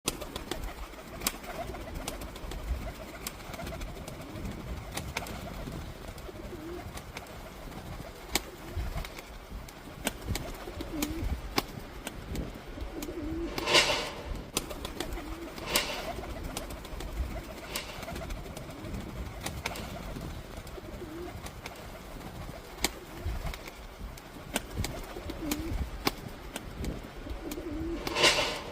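Domestic pigeons cooing over and over in low, gliding calls, with scattered clicks and three short noisy bursts, two close together midway and one near the end.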